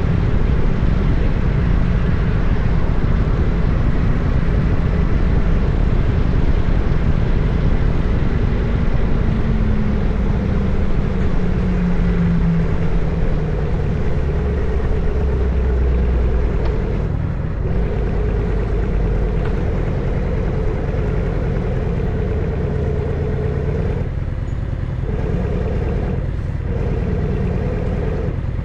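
Harley-Davidson Evolution 1340 cc V-twin running on the move with a deep, steady rumble. The engine note falls gradually about a third of the way in as the rider eases off, then settles a little quieter.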